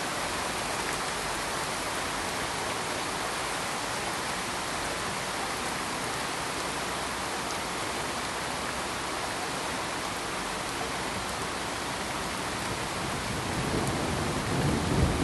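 Steady, even hiss of pink noise that sounds like heavy rain. A low rumble starts to build near the end.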